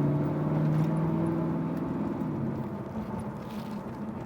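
1998 Pontiac Firebird Formula WS6's LS1 V8 pulling under throttle, its revs slowly climbing; about two and a half seconds in the engine note drops away, leaving a quieter steady rumble of the car rolling along.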